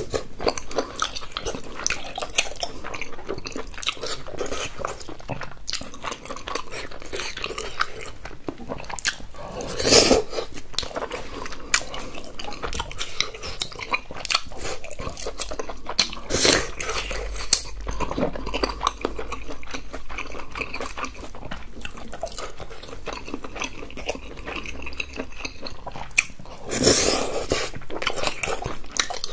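Close-miked chewing of king crab meat and chewy tteokbokki rice cakes in sauce: wet mouth clicks and smacking throughout, with a few louder bursts about ten, sixteen and twenty-seven seconds in.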